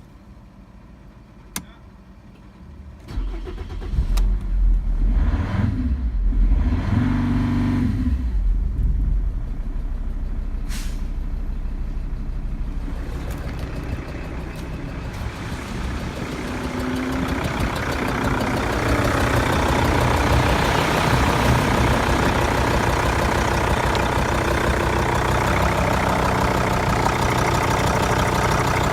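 Mercedes OM612 2.7 CDI inline five-cylinder diesel engine starting about three seconds in and running unevenly loud for several seconds before settling into a steady run. From about sixteen seconds it grows louder and then holds steady.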